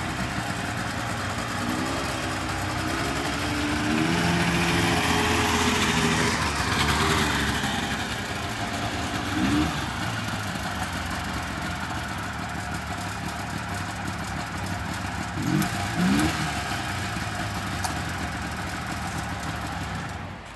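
Automirage Mirage S3R microcar's small engine running as the car drives slowly around, rising and falling in pitch for a few seconds as it speeds up, with short quick revs about a third of the way in and twice more later on.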